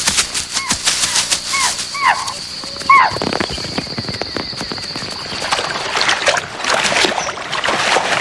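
Chital (spotted deer) giving short, shrill alarm barks, about four in the first three seconds, the call deer give on sensing a tiger close by. A steady high whine runs under them and stops about six seconds in, with crackling rustles throughout.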